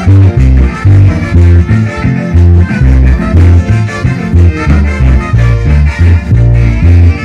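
Yucatecan jarana orchestra playing a jarana, with a strong bass line of about two notes a second under the melody.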